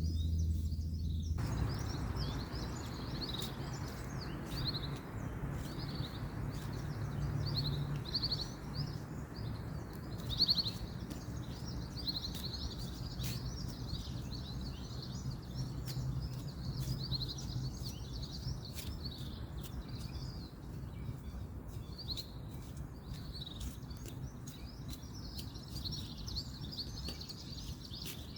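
Small birds chirping and calling on and off over a steady low rumble of distant road traffic. A soft hiss comes in about a second in, and scattered light clicks sound throughout.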